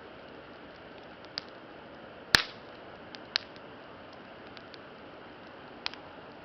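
Wood campfire crackling: a steady hiss with sharp pops, the loudest about two seconds in and a few smaller ones after.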